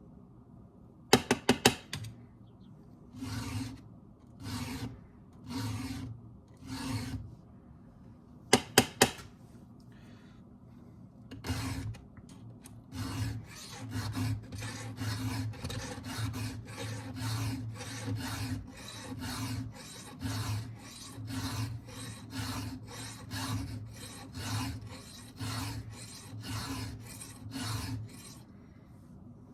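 Round file rasping across a chainsaw chain's chisel cutters to sharpen them: four separate strokes, then a long run of even strokes about two a second. Two quick clusters of sharp clicks come in the first ten seconds.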